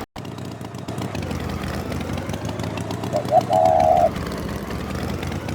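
A steady engine-like rumble, with two short pitched blips and then a held pitched tone, like a toot, about three seconds in.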